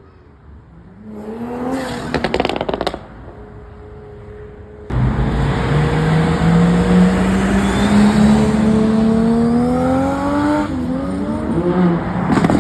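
Performance car engines revving and accelerating hard: a rev with a brief crackle about two seconds in, then suddenly a loud car pulling away close by, its engine note climbing steadily, and another quick rev near the end.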